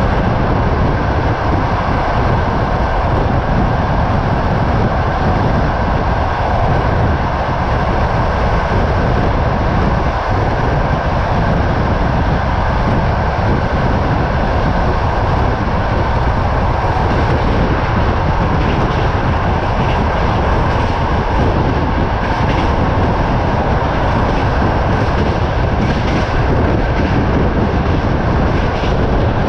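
Passenger train carriage running at speed, heard at an open window: a steady rumble of wheels on rail with wind buffeting the microphone. A few light wheel clicks show through the hum in the second half.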